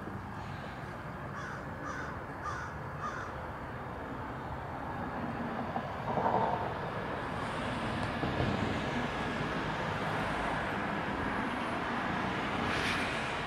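A bird calling about four times in quick succession, over a steady background rumble.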